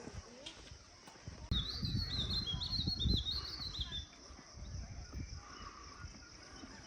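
A small songbird singing a quick run of high, warbling chirps for about two and a half seconds, over low rumbling noise on the microphone.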